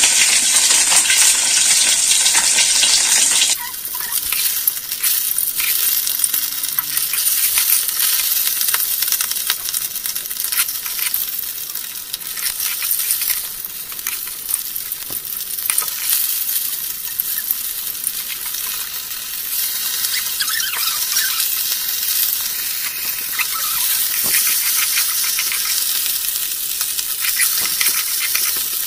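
Fish sizzling and crackling as it shallow-fries in hot oil in an iron wok, with a perforated metal spatula stirring and clinking against the pan now and then. The sizzle turns quieter and thinner a few seconds in.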